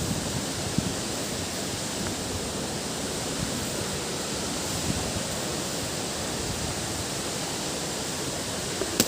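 Steady rushing roar of a waterfall, an even wash of falling water. A single sharp click sounds near the end.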